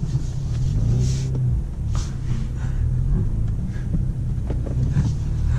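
BMW M235i's straight-six engine running at low, fairly steady revs, heard as a low drone from inside the cabin, with the Armytrix exhaust valves still closed.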